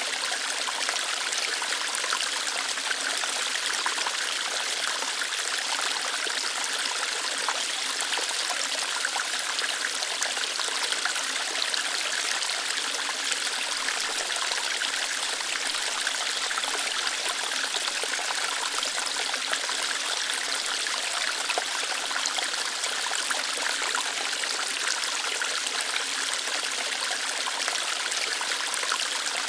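Small waterfall or stream flowing steadily over rocks: an even, unbroken water hiss, bright and light with little low rumble.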